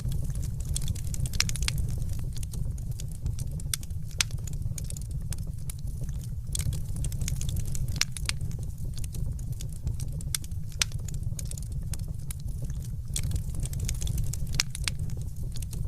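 Wood fire burning in a fireplace, a steady low rumble with many irregular sharp crackles and pops.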